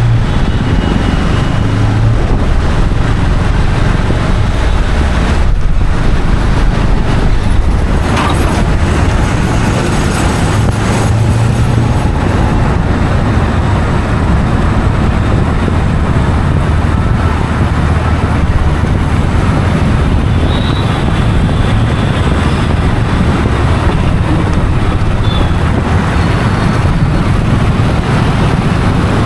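Steady road traffic noise with the low rumble of a running motor vehicle.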